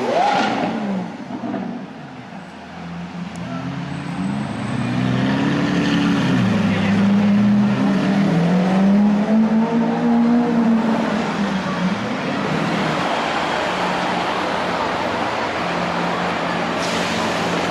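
Sports car engine revving: a quick rev fades in the first second, then a low engine note climbs and falls unevenly for several seconds. After that it settles into a steadier running note over a noisy background.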